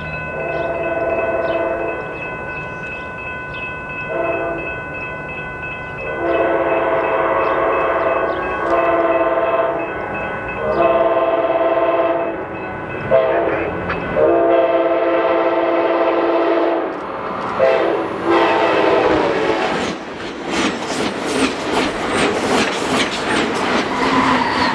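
Amtrak Cascades passenger train sounding its multi-note horn in a series of short and long blasts as it approaches, then passing close by with rapid clickety-clack of its wheels over the rail joints for the last few seconds.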